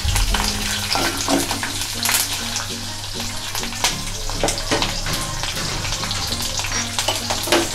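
Mustard seeds, curry leaves, ginger and green chillies sizzling and crackling in hot oil in a kadhai, with a wooden spatula stirring against the pan near the start.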